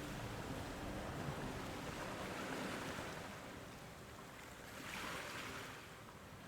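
Steady road and wind noise of a car driving along a highway, swelling briefly twice and easing off in between.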